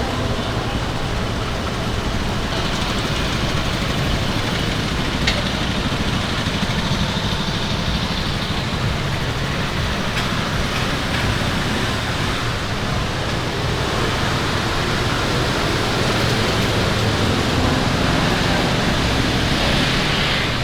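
Street ambience dominated by road traffic: a steady wash of passing cars and motorbikes, with faint voices underneath.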